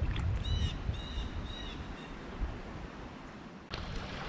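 A bird calling: three short calls, each rising then falling in pitch, about half a second apart in the first two seconds, over a steady low rumble. A sudden knock comes near the end.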